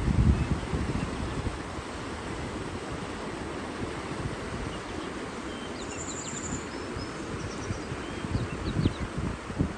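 Steady rush of running water with a few faint, short bird chirps in the second half. Low rumbling surges come at the start and again near the end.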